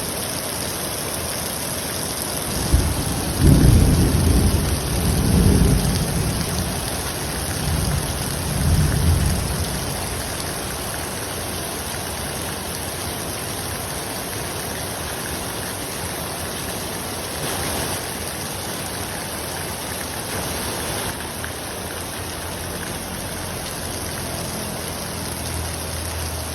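Heavy rain pouring steadily in a thunderstorm. Close to three seconds in, a thunderclap breaks sharply and rolls on in low rumbles for about seven seconds.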